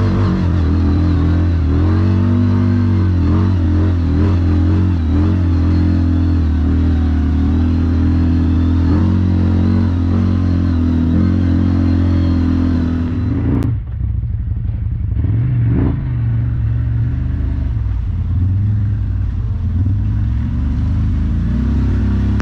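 Motorcycle engine running under way, its pitch rising and falling a little. About fourteen seconds in, the sound changes abruptly and comes back duller.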